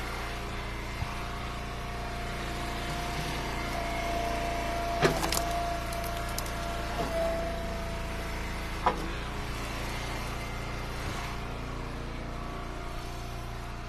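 Eastonmade hydraulic log splitter running steadily. A steady whine is held for several seconds while a round is pushed through, with two sharp cracks or knocks about five and nine seconds in as wood splits and pieces drop.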